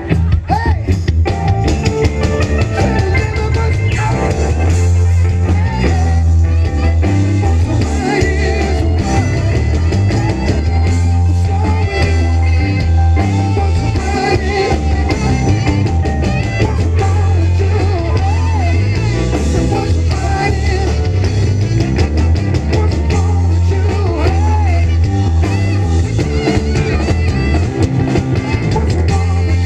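Live rock band playing a stretch without lyrics: drum kit and guitar over a heavy, steady bass line.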